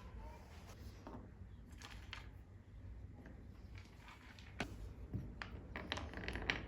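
Scattered light clicks and rustles, as of things being handled, over a low steady rumble, with a sharper click a little past halfway and a cluster of clicks near the end.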